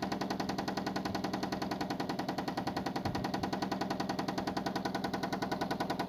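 Toyota 1ZZ four-cylinder engine running with a fast, even rhythmic knocking of about a dozen beats a second.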